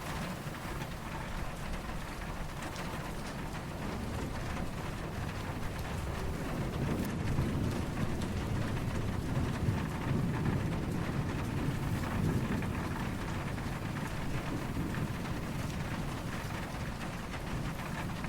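Steady rain falling, with distant thunder rumbling low underneath. The rumble swells about a third of the way in and eases off again near the end.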